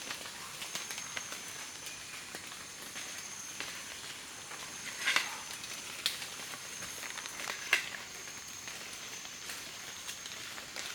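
Outdoor ambience: a steady high hiss with a thin, high, insect-like tone that comes and goes, and a few sharp cracks or snaps about five, six and eight seconds in.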